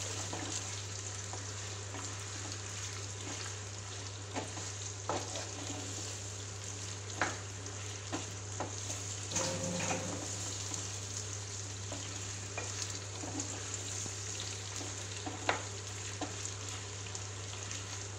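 Chicken pieces sizzling as they fry in mustard oil with browned onions in a nonstick pan, with scattered scrapes and taps of a spatula stirring them.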